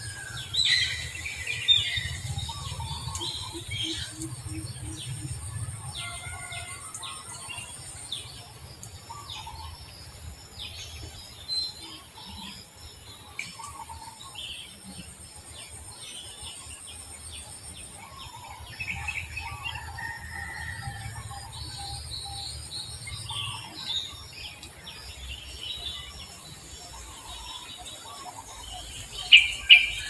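Wild birds chirping and calling in scattered short notes over a low rumble, with two sharp clicks close together near the end.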